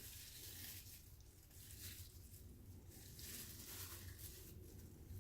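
Faint, irregular sounds of a kitchen knife slicing into a thawed raw chicken breast, over a low steady room hum.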